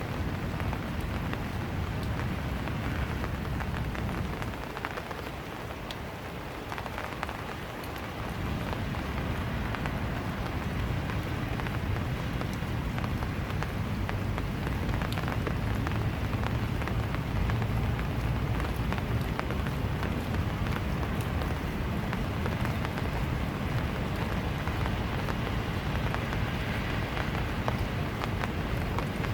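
Steady rain falling, with the patter of individual drops ticking through it. A low rumble underneath eases for a few seconds about a quarter of the way in, then returns.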